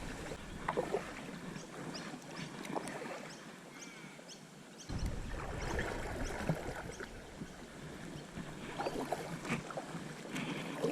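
Water splashing and dripping around a kayak being paddled on a river, with many small scattered clicks and splashes. A low rumble on the camera microphone fades out about a second in and comes back suddenly about five seconds in.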